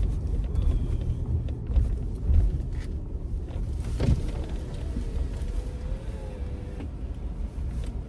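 Low engine and road rumble inside a car's cabin as it moves slowly, easing off after the first couple of seconds, with a single sharp click about four seconds in.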